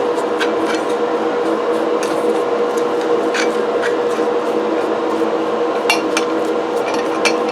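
A brush scrubbing old grease and dirt off ammonia-soaked cast iron grinder parts: a steady scratchy rubbing with scattered small clicks, over a constant low hum.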